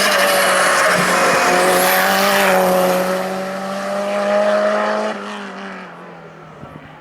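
Hill-climb race car going past at full throttle, its engine held at steady high revs, then fading away up the course about five seconds in.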